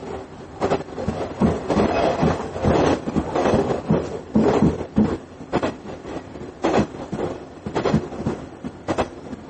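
Inside a JR KiHa 110 series diesel railcar under way: wheels clatter over rail joints in irregular knocks and rattles over a steady running noise.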